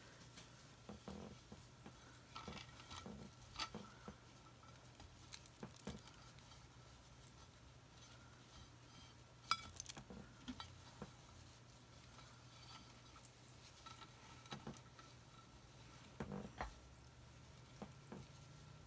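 Faint, scattered taps and rustles of hands handling craft materials on a work table, one sharper tap about halfway through, over a steady low hum.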